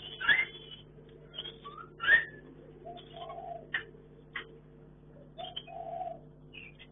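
Caged hwamei calling: two loud, short sweeping calls, one right at the start and one about two seconds in, between several short chips. Soft low cooing notes come at about three and six seconds, over a steady low hum.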